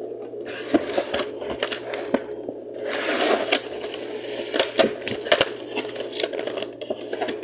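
Aluminium soda cans being handled and set down, with many sharp clicks and knocks and stretches of crinkling packaging, over a steady low hum.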